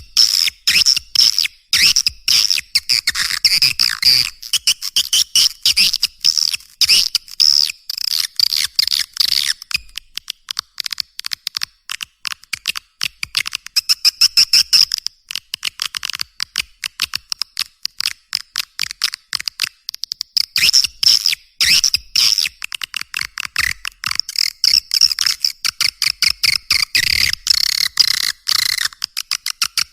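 Recorded swiftlet calls: a dense, rapid twittering of high chirps and clicks that keeps going without a break. It is a lure call of the kind played from swiftlet houses to draw the birds in.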